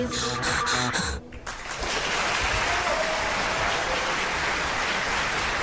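The song's last notes cut off about a second in, and a steady hiss of falling rain takes over, a rain sound effect closing the track. A faint drawn-out tone sounds in the rain about three seconds in.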